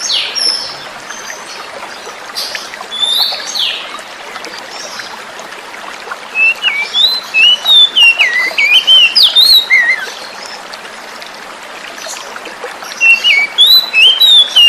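Oriental magpie-robin singing over the steady hiss of running water: a couple of short harsh notes near the start and about two and a half seconds in, then loud runs of varied whistled phrases from about six to ten seconds and again from about thirteen seconds.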